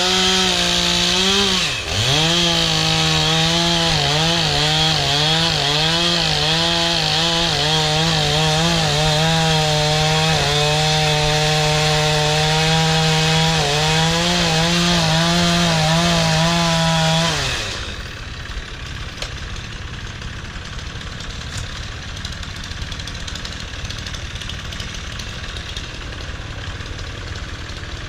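Gasoline chainsaw running at high revs while cutting a log, its pitch wavering under load with a brief dip about two seconds in. It stops after about seventeen seconds, leaving a quieter engine idling steadily, likely the tractor's.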